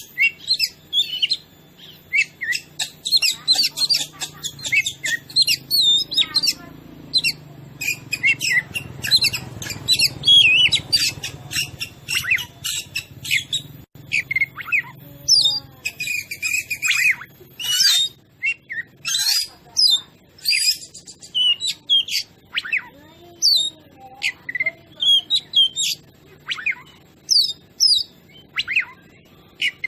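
Oriental magpie-robin (kacer) singing loudly and without pause: a rapid, varied string of chirps, sharp whistles and fast rattling runs, with the short phrases packed tightly together.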